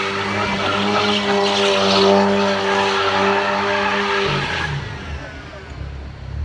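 Car doing a burnout: the engine is held at steady high revs while the tyre spins and squeals against the pavement. A little over four seconds in the tyre noise stops and the engine drops back to a low, rumbling idle.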